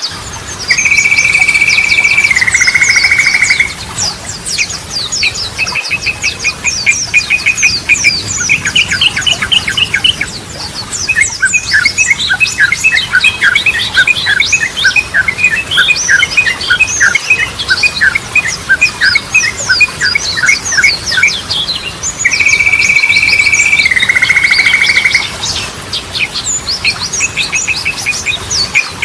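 Yellow-vented bulbuls (trucukan) singing: a long, loud, flat whistled note that drops a step lower before breaking off, given about a second in and again about twenty seconds later, with quick runs of rapid chirping and trilling notes in between.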